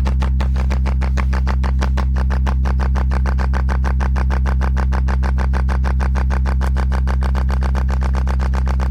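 Anker Soundcore Boost Bluetooth speaker playing an electronic track: a steady deep bass drone with a fast, even ticking pulse over it.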